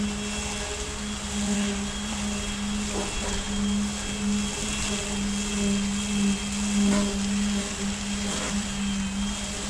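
Heavy earthmoving machine's diesel engine running steadily with a constant low hum and a faint high whine, with a few faint knocks.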